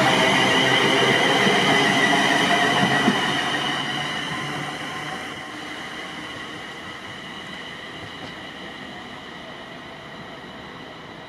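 A train passing through the station and moving away. Its rumble and a high, wavering whine are loud at first, then fade over a few seconds to a lower steady background.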